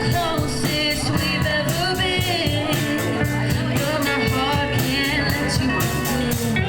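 A live band playing an original song: a singing voice over a steady drum beat.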